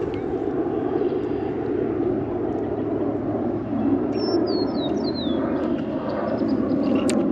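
Steady low outdoor drone, like distant traffic or wind, with a bird giving a short series of descending chirps about four seconds in.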